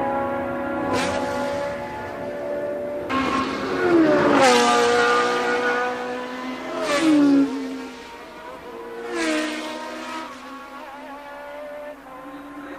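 Formula One race cars passing one after another at speed. Each engine note swells and then drops in pitch as the car goes by, several times.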